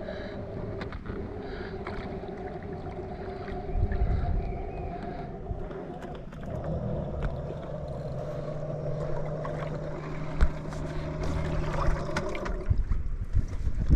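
Small boat under way, with a steady motor hum over wind and water noise. The hum changes pitch about six and a half seconds in, and a lower steady tone joins it for several seconds before it stops near the end.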